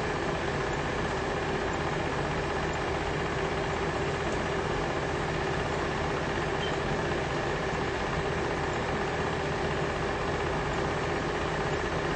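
Steady, unchanging mechanical hum, like a vehicle engine running at idle.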